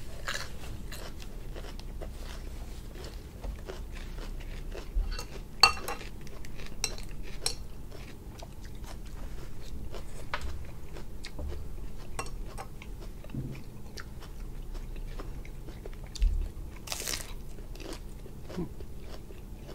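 Close-up mouth sounds of someone biting and chewing crisp romaine lettuce leaves wrapped around grilled cuttlefish: a steady run of small wet crunches and clicks, with a louder crunch about six seconds in and again near the end.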